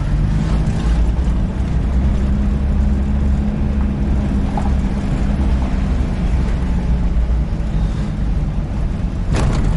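Engine of a 4x4 jeep running steadily as it drives, heard from on board, a low drone with a steady pitch. A brief rush of noise comes near the end.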